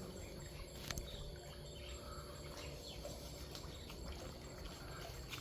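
Quiet outdoor ambience: faint birds chirping over a low steady rumble, with a single sharp click about a second in.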